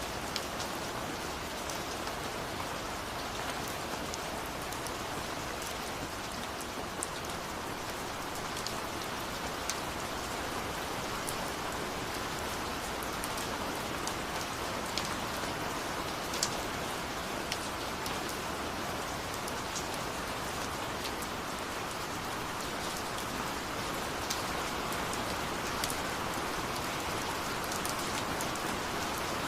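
Steady rain falling, with individual drops ticking sharply on a surface over an even hiss of rainfall.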